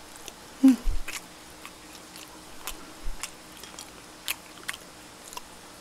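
A person chewing and biting food close to the microphone, with small crisp crunches at irregular moments and a soft thud about a second in.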